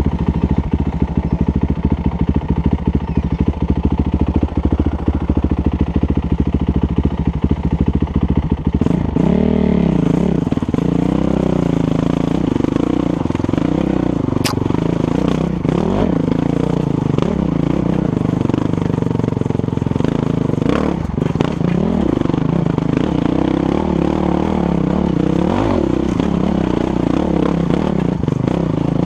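Husqvarna dirt bike engine running at a steady, even beat for about the first nine seconds. After that the revs rise and fall over and over as the bike is ridden.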